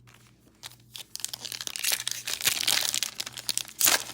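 Foil wrapper of a trading card pack crinkling and tearing as it is ripped open, starting about a second in.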